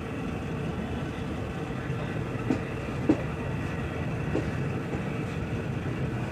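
Passenger train carriage rolling along the track, heard from an open window: a steady rumble of wheels on rails with a few sharp clicks from the rail joints, the loudest about three seconds in.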